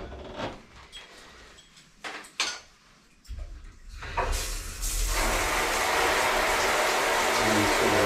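A few knocks and clatters of handled parts, then water is turned on about four seconds in and runs steadily through a newly fitted shower head with a full, even hiss.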